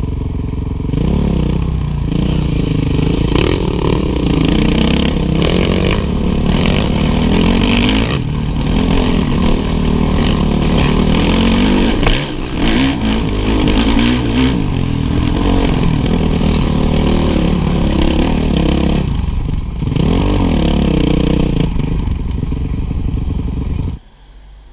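Honda motorcycle engines revving, the pitch rising and falling again and again as the throttle is worked. The sound drops away suddenly just before the end.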